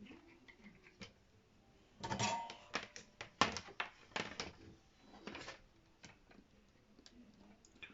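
Clicking and rattling of small hand tools and parts being handled. There is a quick run of sharp clicks starting about two seconds in, then a few scattered clicks, thinning out after about five seconds.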